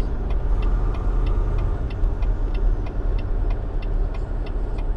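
Dump truck engine running with a steady low rumble, heard from inside the cab, with the turn-signal flasher clicking about three times a second as the truck takes an exit.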